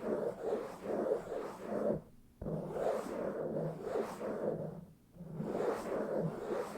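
Fast, rough scratching and rubbing directly on an uncovered microphone, in quick rhythmic strokes of about three a second. It breaks off briefly about two seconds in and again near five seconds.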